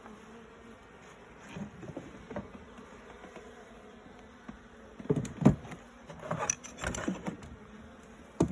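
Honey bees buzzing around an open hive, with a cluster of loud knocks and scraping from about five seconds in.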